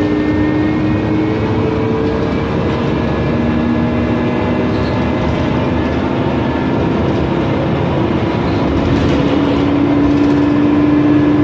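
Mercedes-Benz Conecto NGT city bus, heard from inside while driving: steady running noise under a whine whose pitch slowly slides down, then climbs again near the end. The whine is typical of the bus's Voith DIWA automatic gearbox.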